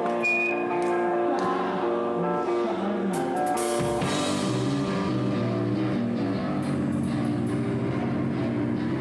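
Hardcore band playing live: electric guitars ringing out sustained chords with drums. A little over three seconds in a cymbal crash hits and the band comes in heavier, with more low end.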